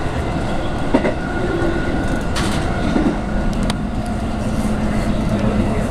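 Inside a JR West electric commuter train running on the line: steady rolling noise with sharp clicks of the wheels over rail joints, and a steady low hum that sets in about halfway through.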